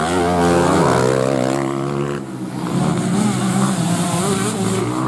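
Motocross bike engine revving hard, its revs falling over the first two seconds; after a short break, racing dirt-bike engines again, the revs wavering up and down.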